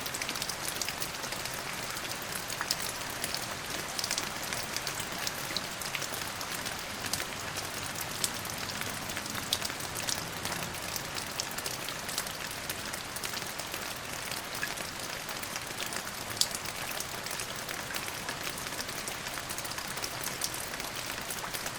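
Steady rain falling, a constant hiss with many sharp individual drops ticking on a hard surface.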